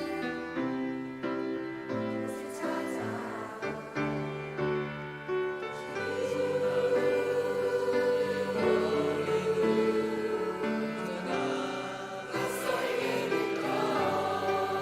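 A youth choir singing a worship song over musical accompaniment, swelling fuller and louder about six seconds in.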